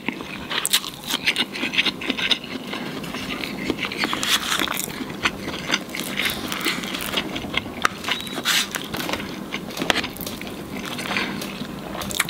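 Close-miked eating: chewing fried chicken, with irregular wet clicks and crackles of mouth sounds, and a wooden spoon scraping in a plastic food tray.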